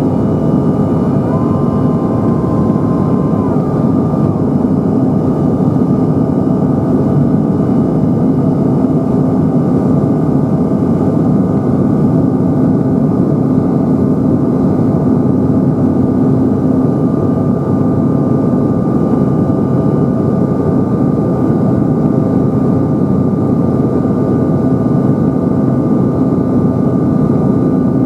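Cabin noise inside a Bombardier CRJ-900LR heard from a rear window seat: the rear-mounted General Electric CF34 turbofans and airflow make a loud, steady noise with a constant drone.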